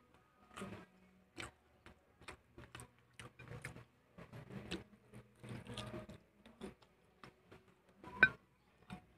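Close-miked chewing and biting of crispy fried chicken: a string of short crunches and wet mouth clicks, with one sharp, much louder click about eight seconds in.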